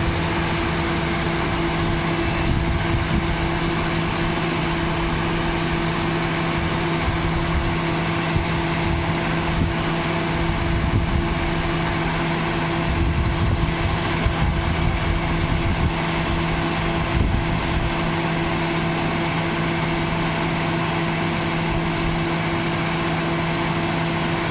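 A motor running steadily with a constant hum, with uneven low rumbles in the middle stretch.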